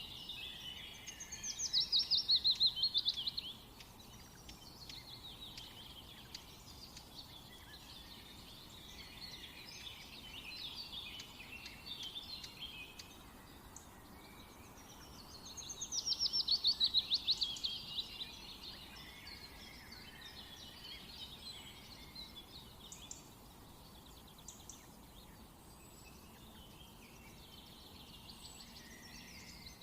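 Birdsong from several birds: a loud, rapid trill that slides down in pitch rings out twice, about a second in and again around the middle, over quieter chirping and twittering from other birds.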